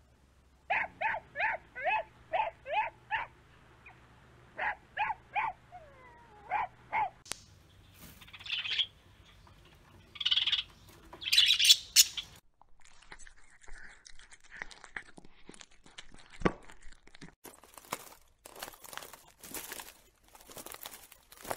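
Chihuahua puppies yipping: about eight short, high yelps at roughly three a second, then a few more in twos and threes. Next, budgerigars chirping in a few bright bursts. The second half holds only fainter scattered clicks and noise.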